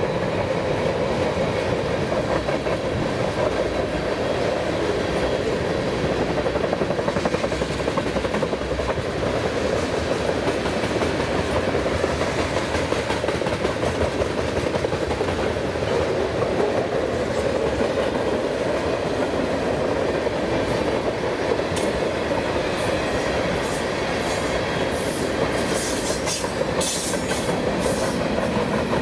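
A CN freight train's cars rolling past, a steady loud rumble of wheels clicking over the rail joints. From about three-quarters of the way through, short sharp high-pitched squeaks come in over the rumble.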